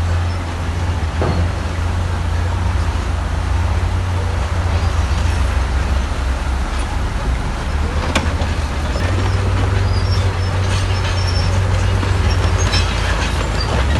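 Heavy diesel earthmoving machinery running steadily with a deep engine rumble, under scattered short knocks and faint high squeaks. A sharp knock comes about eight seconds in.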